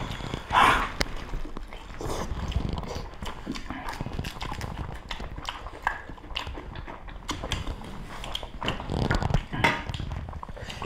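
People chewing and eating by hand, with wet smacking mouth sounds and many small clicks.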